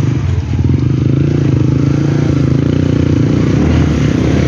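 Motorcycle engine running steadily under load, carrying a rider and a pillion passenger uphill.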